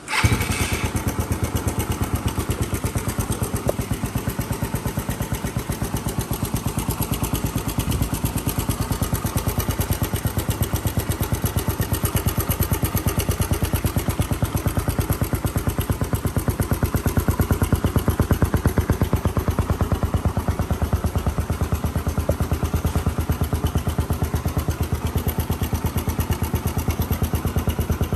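Suzuki GN125's single-cylinder four-stroke engine, breathing through an aftermarket Beams muffler, starts right at the beginning and then idles steadily with an even, rapid exhaust beat.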